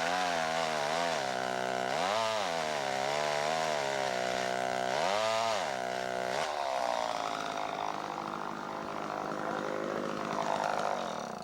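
Chainsaw cutting through a tree trunk, its engine revving up and dropping back about three times as the chain bites into the wood, then running rougher before cutting off suddenly at the end.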